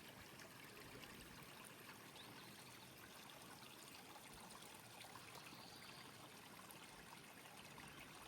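Faint, steady rushing of flowing water from a mountain stream.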